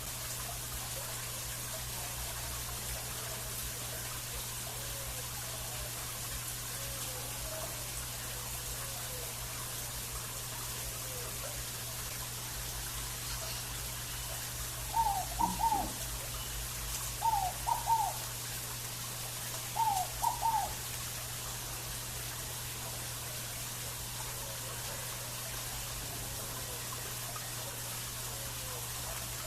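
Scaled dove (fogo-apagou) calling: three loud phrases of a few quick rising notes, each under a second long and two to three seconds apart, about halfway through. Fainter calls come from more distant birds throughout, over a steady hiss and low hum.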